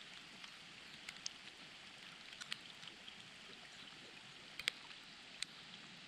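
Light rain falling, a faint steady hiss with scattered sharp drop ticks, the loudest a little before the five-second mark.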